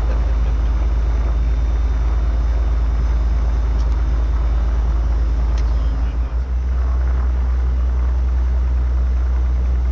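Light aircraft's piston engine running at idle, heard from inside the cabin as a steady low drone. It dips and wavers briefly about six seconds in.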